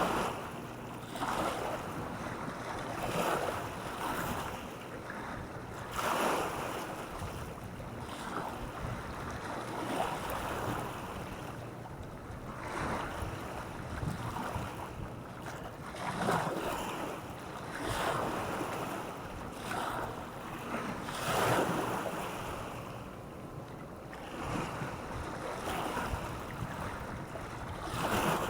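Small waves washing onto a beach in irregular surges every few seconds.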